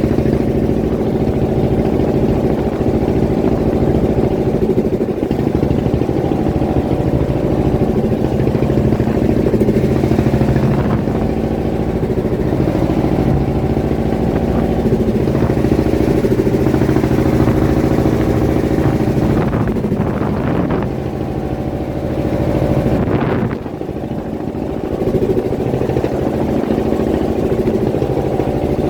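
Fishing boat's engine running steadily at close range, with an even, unchanging pitch; it drops briefly in level about three-quarters of the way through.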